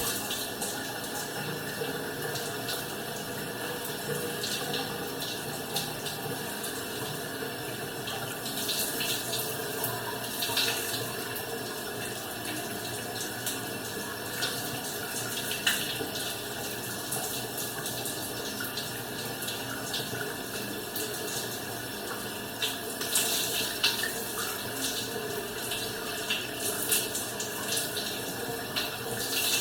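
Shower running: a steady spray of water, with now and then a louder splash as someone washes under it.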